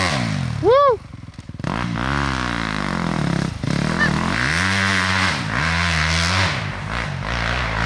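Dirt bike engine revving up and down repeatedly as the bike is ridden through the course. About a second in there is a brief, loud whoop that rises and falls in pitch.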